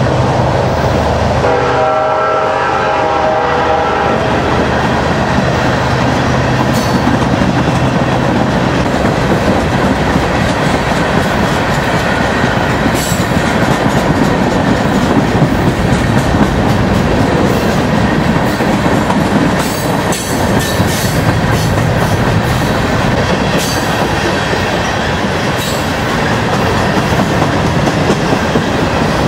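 BNSF freight train's hopper cars rolling past, steel wheels rumbling and clacking over the rail joints.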